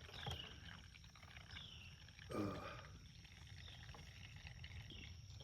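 Faint trickle of old water-contaminated fuel draining from a jet ski's fuel tank through a small hose into a plastic jug.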